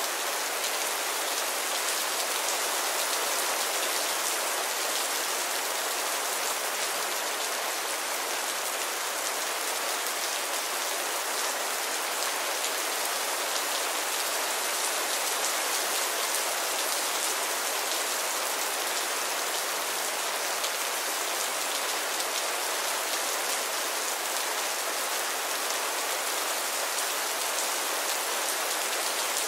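Steady rain falling: a dense, even hiss of drops on a surface, unchanging throughout, with little deep rumble and no thunder.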